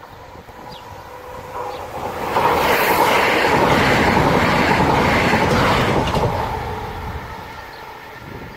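Southeastern Class 395 electric multiple unit passing over the level crossing at speed. Its wheels clatter over the rails and the rushing noise builds, stays loud for several seconds, then fades as the train goes by.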